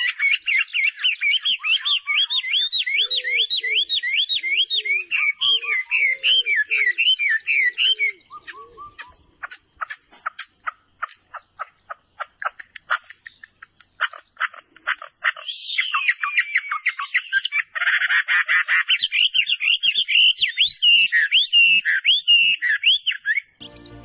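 Wild birds singing: fast runs of high, up-and-down whistled notes, with a lower call repeated beneath them for a few seconds. A spell of dry clicking notes comes in the middle.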